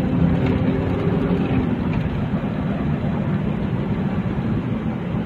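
Motor vehicle running, a steady engine hum with road noise; the engine's low tones drop away about a second and a half in, leaving mostly road noise.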